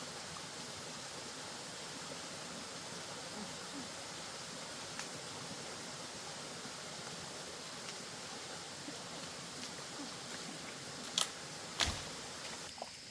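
Steady rush of flowing water, with two sharp knocks near the end.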